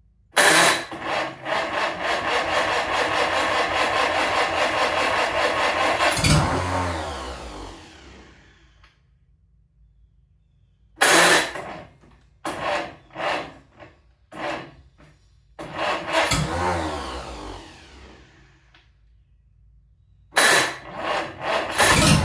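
Rebuilt Farmall Cub Lo-Boy four-cylinder tractor engine firing on a first start: it runs for about six seconds and dies away, then catches in several short sputtering bursts, runs briefly again, and fires twice more near the end. It keeps dying because its temporary fuel line is running dry.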